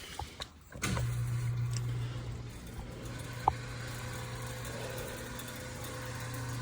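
An engine idling with a steady low hum that starts abruptly about a second in, with a single sharp click partway through.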